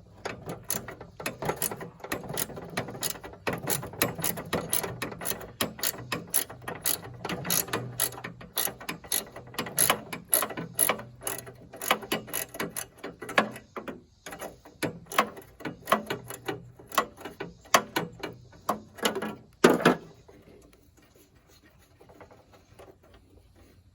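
Hand ratchet wrench clicking in quick, uneven runs as a fastener on a tractor body panel is worked loose. The clicking stops about four seconds before the end.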